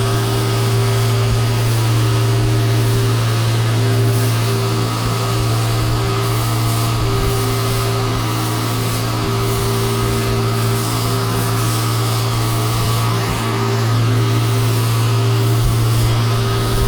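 Pressure washer running steadily: a constant low machine hum with a hiss of spray over it.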